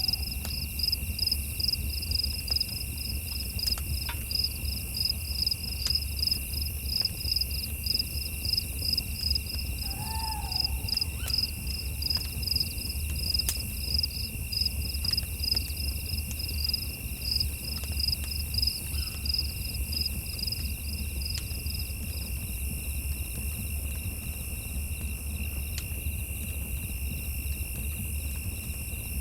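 Night insects chirping: a rapid, even run of high chirps that stops about two-thirds of the way through and returns faintly near the end, over a steady high trill and a low rumble. A single short, lower call sounds about ten seconds in.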